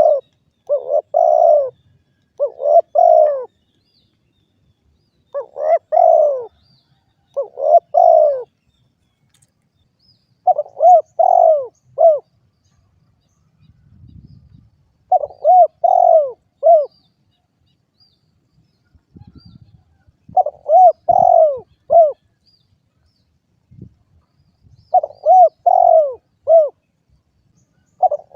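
Spotted dove (derkuku) cooing: short phrases of three or four arched coo notes, repeated every few seconds with pauses between.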